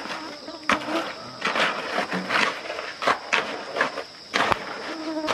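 Steady high insect drone under scattered sharp knocks and clatter, two louder knocks about a second in and near the end.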